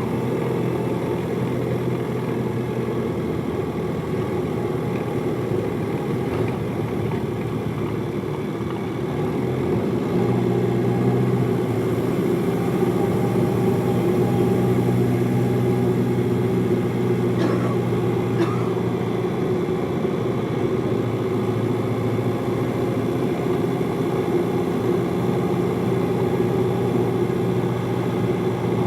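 Hino Liesse small bus's diesel engine running while the bus is under way, heard from inside the passenger cabin. The engine note grows stronger about a third of the way in.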